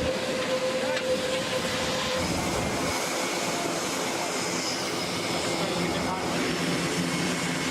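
Aircraft engines running at the airfield: a steady rush of engine noise with high whining tones, whose pitch pattern shifts about two seconds in.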